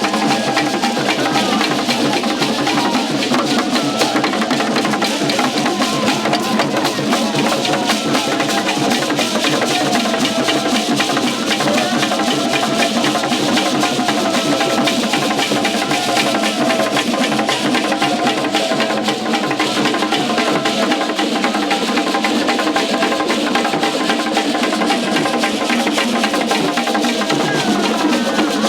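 Live festival percussion music: fast, dense drumming with a wood-block-like click, over a wavering melody line.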